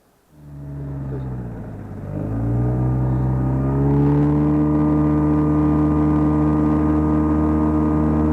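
Boat's outboard motor running under way. It starts about a third of a second in, gets louder about two seconds in as it is throttled up, then runs steadily.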